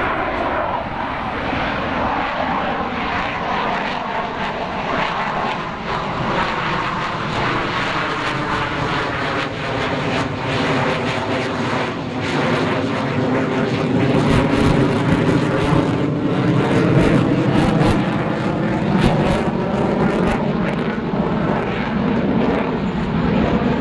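F/A-18 jet engines running at high power as the jet flies past, the pitch sweeping and shifting as it goes. The noise grows louder past the middle, with sharp crackling in the loudest stretch.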